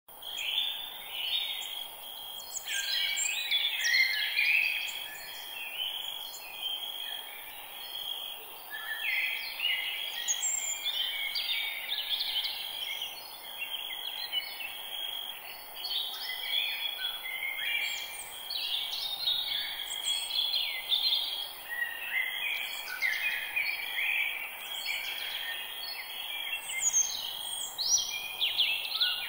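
Forest bird chorus: many birds chirping and trilling at once, overlapping without pause, over a steady hiss of background noise.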